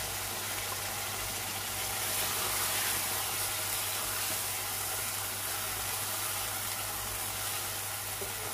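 Chicken korma sizzling in a pot on a high gas flame as almond paste is stirred in with a silicone spatula: a steady frying hiss that swells a little about two seconds in, over a constant low hum.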